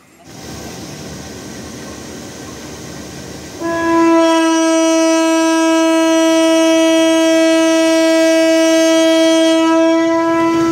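A passing train's rumble rises, then about three and a half seconds in a diesel locomotive's horn sounds one long, steady, loud note for about seven seconds before cutting off near the end.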